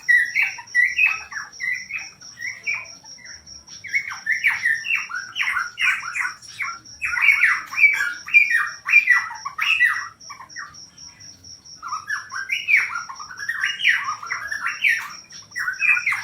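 A cucak pantai songbird sings loud, rapid phrases of varied, quickly changing notes in three spells with short pauses. Under the song runs a cricket's steady, fast-pulsed trill.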